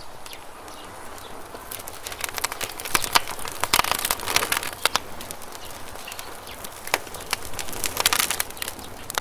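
Wood campfire crackling, with dense clusters of sharp pops about two to five seconds in and again near the end, over a faint steady hiss.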